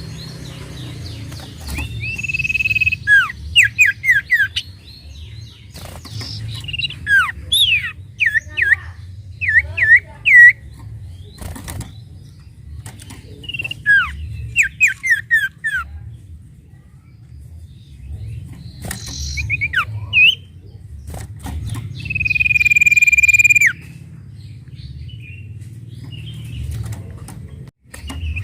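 Sirtu bird singing: long held high whistles mixed with runs of quick downward-sliding whistled notes and chirps, with pauses between phrases.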